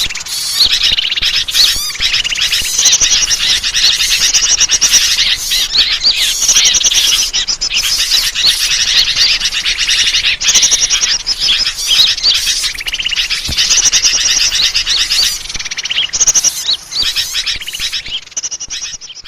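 Bird-lure recording: dense, continuous chirping and twittering of many small birds at once, fading out near the end.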